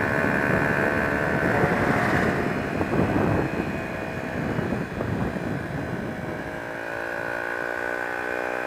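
Honda XR125's single-cylinder four-stroke engine running as the bike rides along, its pitch shifting slightly, over a low rumble.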